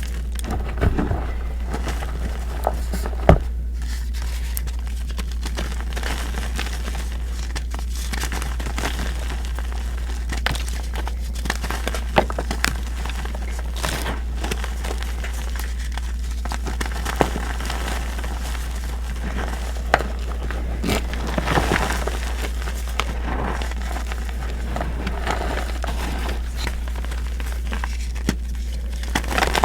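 Reformed gym chalk being crushed and crumbled, giving irregular crisp cracks and gritty, crunchy crumbling. A steady low hum runs underneath.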